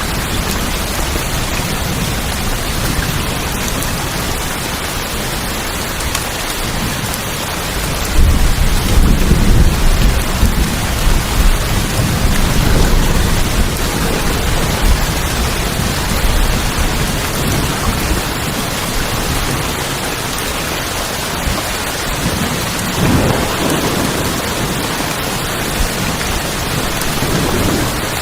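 Steady rain falling on tin roofs, with a long roll of thunder rumbling from about a third of the way in and a shorter rumble about two-thirds of the way through.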